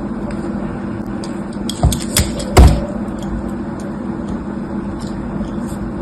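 A few sharp knocks from objects being handled, the loudest just past the middle, over a steady background hum.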